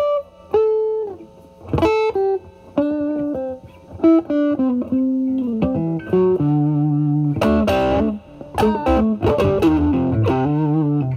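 Electric guitar, a Stratocaster through a Vertex Steel String Clean Drive MK1 overdrive pedal set at about 12 to 1 o'clock gain into the drive channel of a Marshall Valvestate amp, playing single-note lead phrases with string bends, held notes and short pauses between licks.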